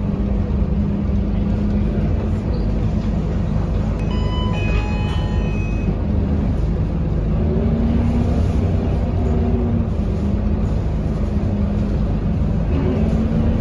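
Scania K230UB bus's diesel engine and drivetrain running on the move, a steady low drone whose pitch sinks and rises with speed and climbs again near the end. A brief cluster of high electronic tones sounds about four seconds in.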